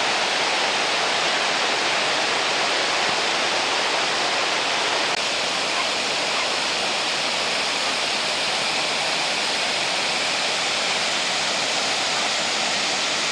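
Steady, unbroken rush of water from Fukiware Falls, a waterfall pouring over rock.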